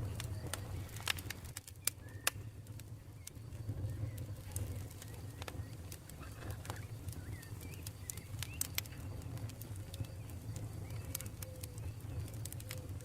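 Campfire crackling: irregular sharp pops and snaps of burning wood over a low steady rumble of the flames, with faint bird calls in the background.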